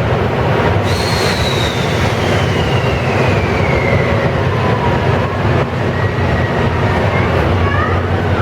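Running noise of a 12-series passenger coach on rails, heard from inside, hauled by EF65 501. About a second in, a high whine begins and falls slowly in pitch over several seconds, and a few short rising squeals come near the end.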